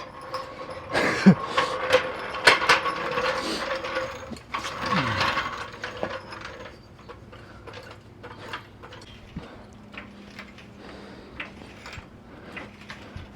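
Metal clanks, clicks and ratcheting as a pickup truck is jacked up. Two short falling creaks come in the first half, and lighter scattered clicks follow.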